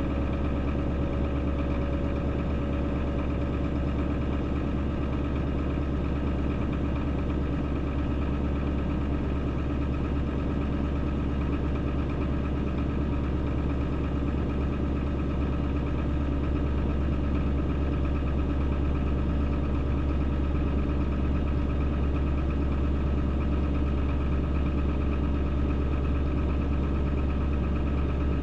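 Chevrolet Duramax V8 turbo-diesel in a K3500 dually pickup idling steadily, warming up shortly after a cold start.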